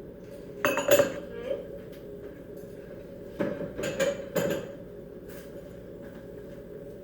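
Dishes and cutlery clattering and clinking as they are put away, in two short bursts of clatter about a second in and again around four seconds in.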